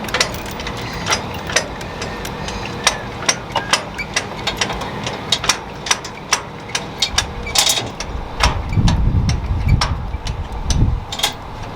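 Pickup truck engine idling under a string of sharp metallic clinks and clanks, as trailer safety chains are hooked to the hitch. A heavier low rumble comes in about eight seconds in and lasts a few seconds.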